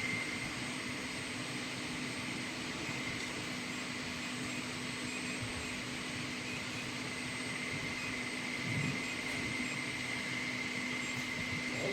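A machine running with a steady whirring hum and a constant high whine, fan-like in character.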